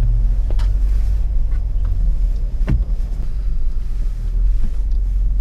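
A Jeep Wrangler's engine and drivetrain running with a steady low rumble as it crawls along a rough trail, with a couple of sharp knocks, one about half a second in and a clearer one near the middle.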